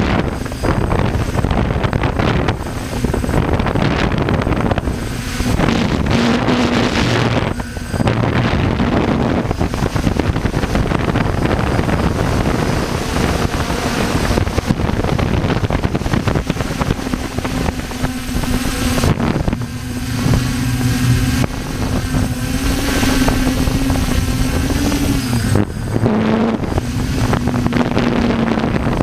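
Helicopter running, its engine and rotor giving a steady low hum under loud rushing wind noise on the microphone, with brief dips every few seconds.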